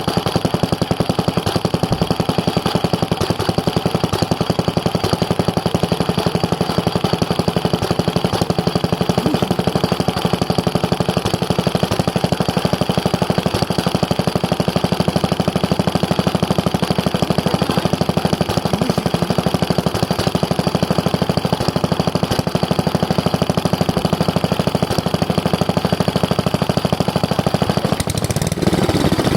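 Old Mitsubishi Katsura H3C small stationary engine running steadily, its firing beats coming in a dense, even rhythm.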